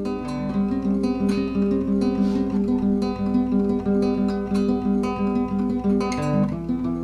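Acoustic guitar music: a steady run of plucked notes.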